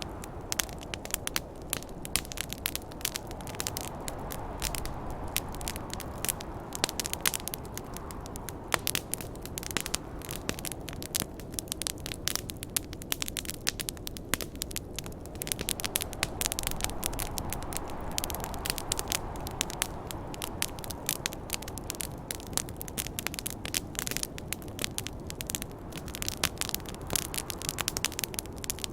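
Wood fire crackling and popping in quick irregular snaps, over a steady snowstorm wind that swells and eases twice.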